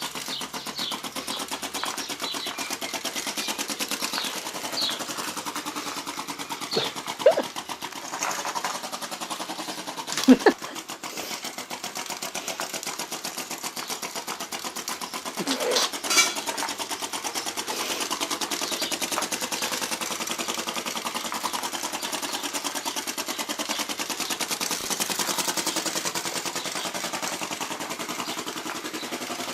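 Model flame-licker (vacuum) engine on a small toy tractor running steadily with a fast, even clatter. A few short sharp knocks stand out, loudest about ten seconds in.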